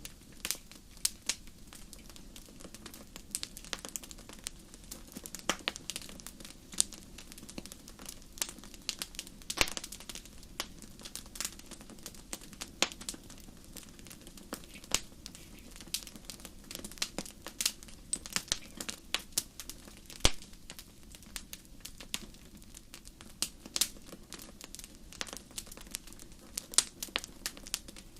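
Fire in a fireplace crackling, with sharp, irregular pops several times a second over a steady low background.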